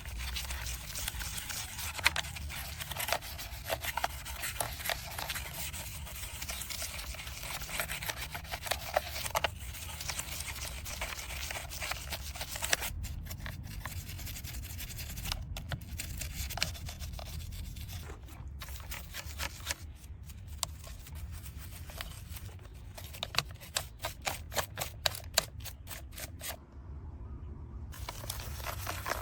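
Scrubbing and scraping on a small diecast model truck during cleaning: a steady scratchy rubbing full of small ticks, which cuts out briefly several times in the second half.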